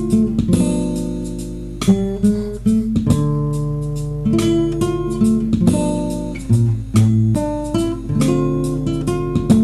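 Acoustic guitar playing an instrumental passage, strumming and picking chords that ring out and fade between strokes.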